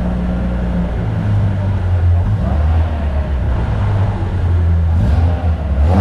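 Peugeot 205 Rally's four-cylinder engine running through its exhaust: the revs drop about a second in, and the engine then runs on at a lower, uneven speed.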